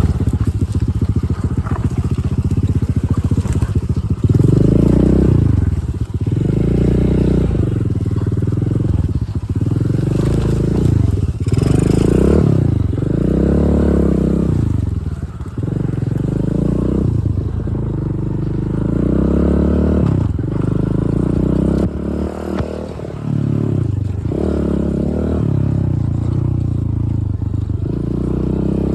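Dirt bike engine running under a rider, revving up and dropping back over and over, about every two seconds, as the throttle is worked.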